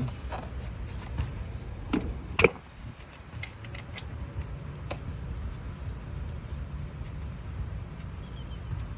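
Scattered small metallic clicks and taps of screws and tools being worked by hand against the new water pump while its mounting screws are started, with a sharper knock about two and a half seconds in. A steady low rumble runs underneath.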